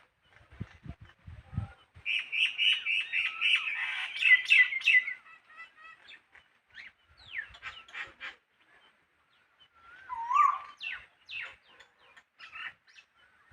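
Small birds chirping: a dense run of rapid, high chirps about two seconds in lasting some three seconds, then scattered single calls, and another cluster of chirps with a short whistled call around ten seconds in.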